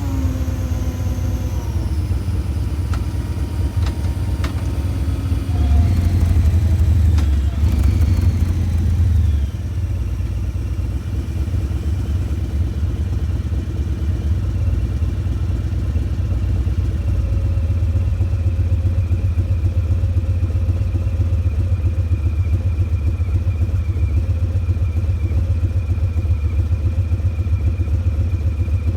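Harley-Davidson FXBRS Breakout's Milwaukee-Eight 114 V-twin running through Vance & Hines Eliminator 300 slip-on mufflers. Its revs fall away at the start, rise again from about six to nine seconds in, and then it settles into a steady idle rumble.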